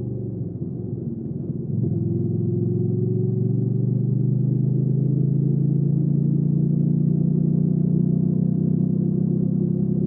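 Hyosung GV300S Supreme motorcycle's V-twin engine under way. It runs softly for the first two seconds, then the throttle opens and the engine pulls steadily in gear, its pitch climbing slowly.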